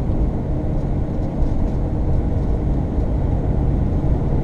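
Road vehicle driving, heard from inside the cab: steady engine hum and road rumble.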